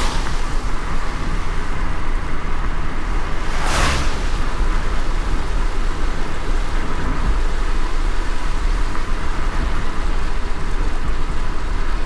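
Car driving in light rain: a steady low road rumble under an even hiss of rain and tyres on wet road, with a brief swish about four seconds in.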